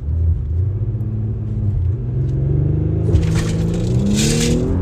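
Turbocharged 3.0-litre V6 of a 2018 Audi SQ5 with its exhaust resonator deleted, accelerating hard under full throttle toward 60 mph; the engine note climbs steadily in pitch, with a rushing hiss joining in over the last second or so.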